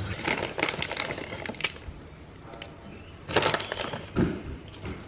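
Kitchen handling noises during food preparation: a scatter of light clicks, taps and short rustles, in a few clusters.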